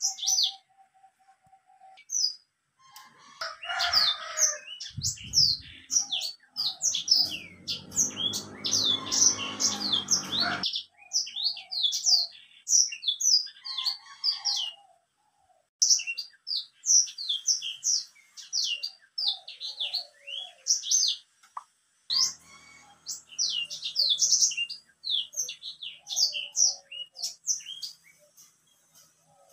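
Black-throated canary (blackthroat) singing: long phrases of fast, high chirps and short trills in energetic song, with a short pause about halfway and another near the end. A low noise runs under the song for about three seconds a third of the way in.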